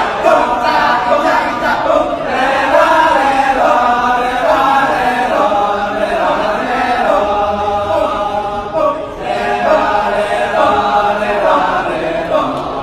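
Balinese kecak chorus, a group of voices chanting together without instruments.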